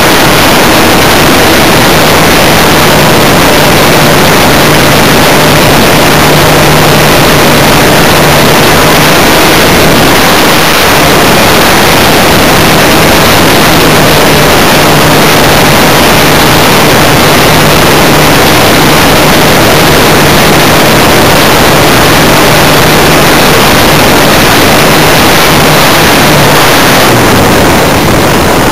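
Funtana S90 radio-controlled aerobatic plane in flight: its engine runs at a steady pitch under a loud, distorted rush of air on the camera microphone. Near the end the engine tone drops as the throttle comes back.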